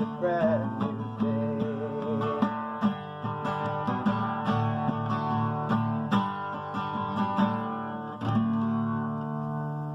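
Acoustic guitar strumming the closing chords of a folk song. The singer's last held note wavers over it for the first couple of seconds. A final chord is struck near the end and left ringing.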